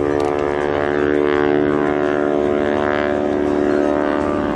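North American T-6 Harvard's Pratt & Whitney R-1340 Wasp radial engine and propeller running steadily in flight, a dense, even buzzing note.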